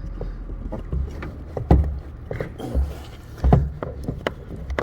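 Irregular clicks, rattles and knocks with a few dull thumps, from a Honda CR-V rear door latch being pulled down and wiggled loose inside the door.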